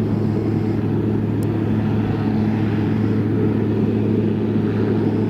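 Cessna 182RG's Lycoming O-540 six-cylinder engine and propeller running in flight: a loud, steady drone that holds one pitch throughout.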